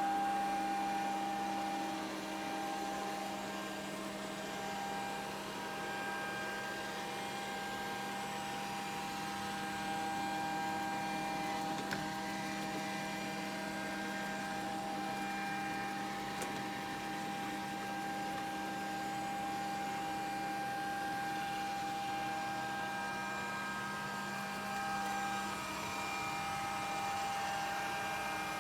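Grundig VCR 2131 robot vacuum cleaner running: a steady motor and fan hum with a few held whining tones.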